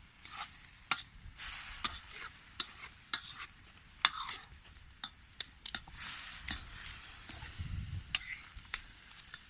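Food sizzling in a wok over a campfire as it is stirred, with irregular sharp clicks and scrapes of the utensil against the pan; the hiss swells and fades, loudest about six seconds in.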